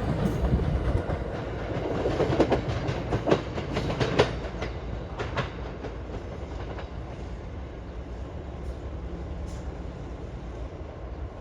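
NJ Transit Arrow III electric multiple-unit train moving along the track, its wheels clicking over the rail joints over a low rumble. The clicks come further apart and grow fainter, and the rumble dies down.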